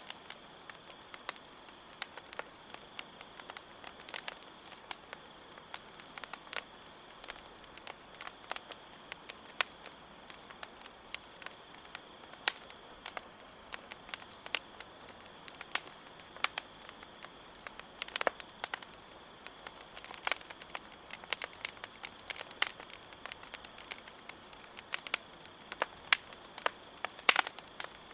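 Campfire crackling, with irregular sharp pops and snaps from the burning wood, over a steady high-pitched cricket trill.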